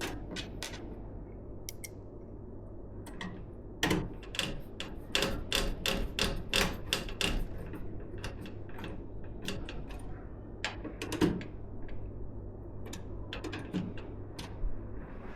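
Small clicks and taps of hard plastic and metal PC parts being handled, in irregular runs, thickest from about four to seven seconds in and again in a short burst around eleven seconds.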